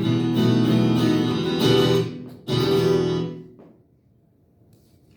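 Acoustic guitar being strummed, ending with a last chord about two and a half seconds in that rings out and fades away by about four seconds.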